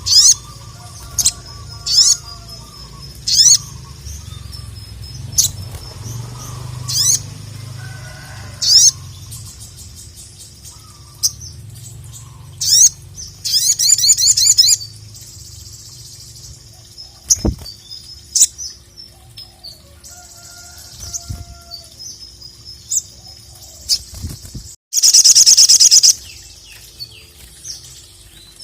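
Ruby-cheeked sunbird (sogok ontong) singing: sharp, very high falling notes repeated about once a second, broken by two fast rattling trills, the louder one near the end.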